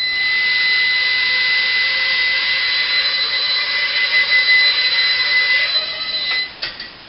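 Walkera Ladybird micro quadcopter's motors and propellers running in a steady high-pitched whine during a short hop, starting abruptly and cutting off about six and a half seconds in.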